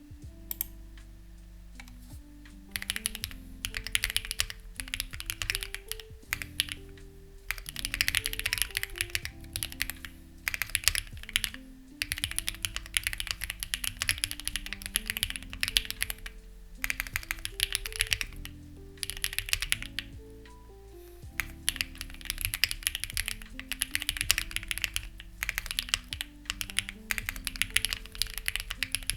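Lucky65 v2 mechanical keyboard being typed on in runs of quick keystrokes with short pauses. The HMX Ziwei switches are stock and unlubricated, under CMK-profile clone keycaps. Soft background music plays underneath.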